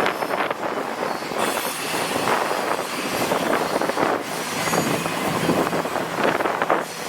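Freight cars of a long intermodal train rolling past on the rails: a dense rushing noise of wheels on rail that swells and fades.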